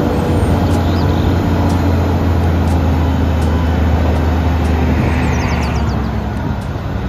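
Diesel engine of an eight-wheel tipper truck running steadily while the tipper body is raised hydraulically.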